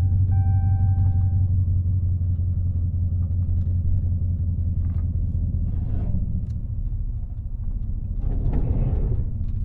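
Steady low engine and road rumble from inside the cabin of a Dodge Charger Scat Pack with a 6.4-litre HEMI V8, cruising on a drive through snow. A steady high tone with overtones sounds in the first second or so, then stops.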